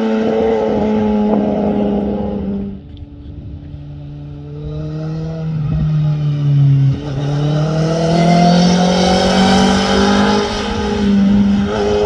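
Sport motorcycle engine running at a steady high pitch, the throttle closing about three seconds in, then pitch climbing as it accelerates again, with a brief dip near seven seconds like a gear change.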